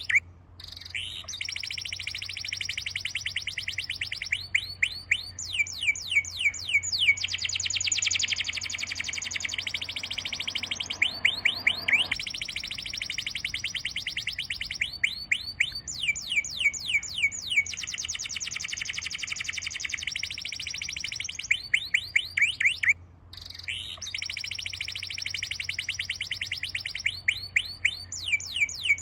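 A songbird singing continuous rapid trills, runs of fast repeated descending whistled notes, broken by two abrupt short gaps, one near the start and one about three-quarters through, over a faint steady low hum.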